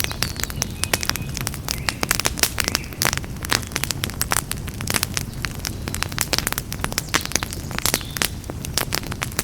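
Campfire crackling, with constant irregular sharp pops and snaps over a low steady rumble of the burning wood.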